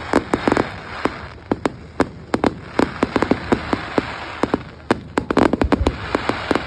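Fireworks display: a rapid, irregular string of sharp bangs and cracks, bunched in clusters, over a continuous crackle.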